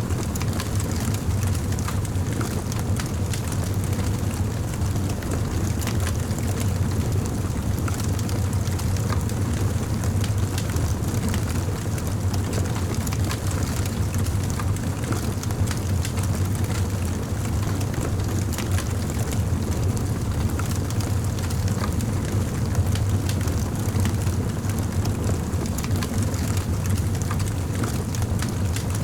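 Campfire burning steadily: frequent small crackles and pops over a continuous low rumble.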